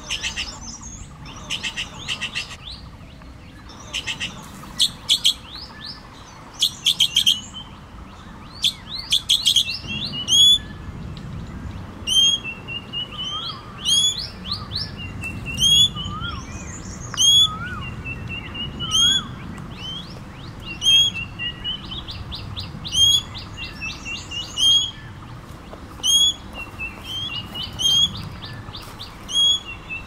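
Birds calling in the forest: bursts of rapid, high chattering notes, then from about a third of the way in a short sharp call repeated roughly once a second, broken now and then by fast trills.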